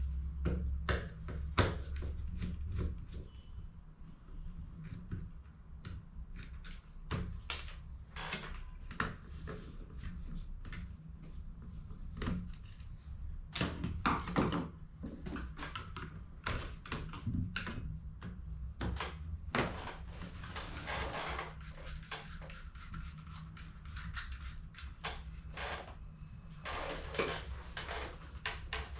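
HP CE285A toner cartridges being handled and worked on by hand: scattered plastic clicks, knocks and rattles, over a low steady hum.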